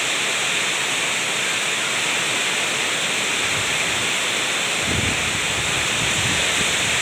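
Heavy rain pouring down in a steady hiss. A low rumble joins it about five seconds in.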